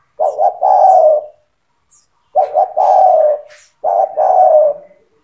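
Spotted dove (tekukur) singing: three cooing phrases, each a couple of short notes running into a longer coo that falls slightly in pitch, with short silent gaps between them.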